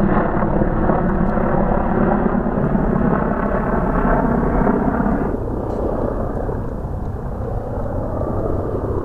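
A motor running steadily, its sound turning duller and a little quieter about five seconds in.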